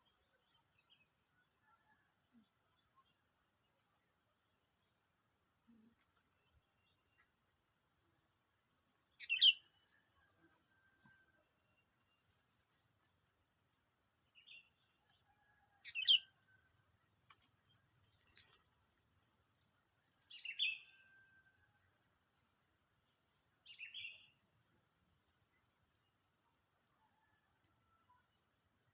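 Four short, sharp bird calls a few seconds apart, the first two loudest, over a steady high-pitched whine.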